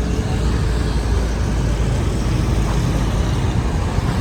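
Steady outdoor street noise with a dense low rumble of passing road traffic.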